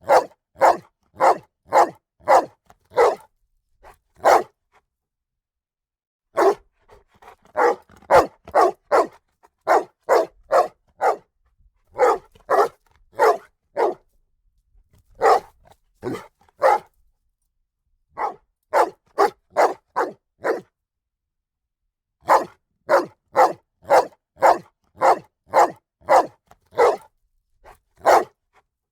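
A dog barking loudly and repeatedly, about two barks a second, in bouts broken by pauses of a second or two.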